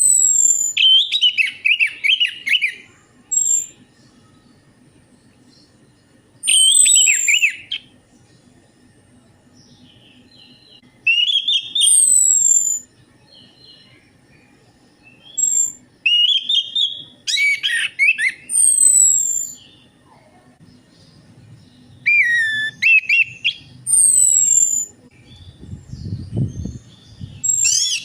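Orange-headed thrush (anis merah) singing: about six short phrases roughly five seconds apart, each a high falling whistle run into a rapid fluttering warble.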